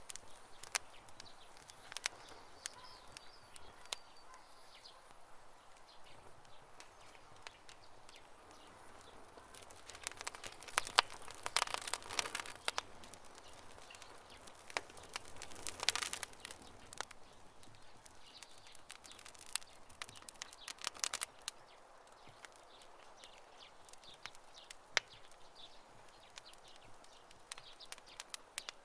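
Campfire crackling: burning wood giving irregular sharp pops and snaps over a soft hiss, with busier runs of crackles about ten and sixteen seconds in.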